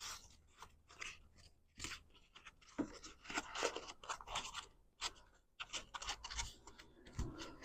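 Faint, irregular rustling, scraping and light clicks of small parts being handled and pressed into a car door, with a foam piece being fitted into place. The clicks come in clusters, busier in the second half.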